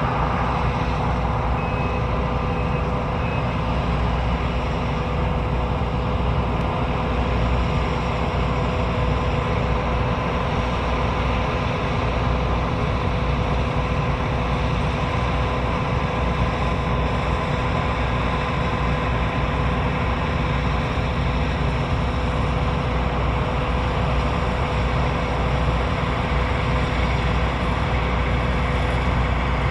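John Deere 9640i WTS combine harvester running steadily: an even, heavy drone with a steady whine from its engine and machinery. Three short, faint high beeps sound about two seconds in.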